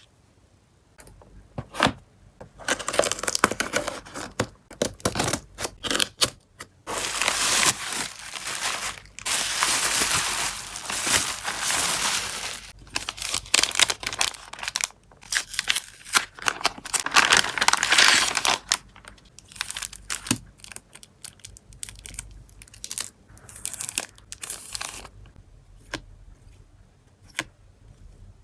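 Delivery parcel packaging being torn open and crinkled by hand, in repeated bursts of ripping and rustling. In the last third it gives way to lighter rustles and small clicks of handling.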